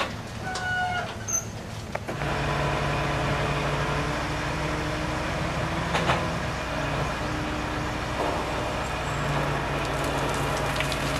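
A large engine, such as road-work machinery or a truck, comes in about two seconds in and runs at a steady low drone.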